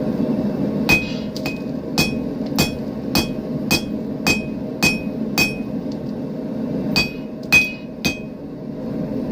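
Hand hammer striking a hot railroad spike on an anvil, flattening its head: nine ringing blows about two a second, a pause of about a second and a half, then three more. A steady low hum runs underneath.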